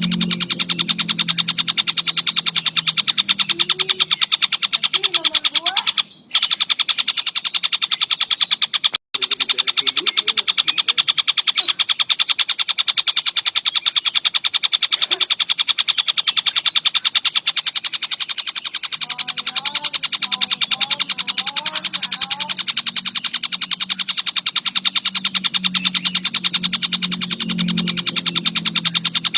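Tengkek buto kingfisher calling in a continuous, very fast high-pitched chatter of even pulses. It breaks off briefly twice, about 6 and 9 seconds in.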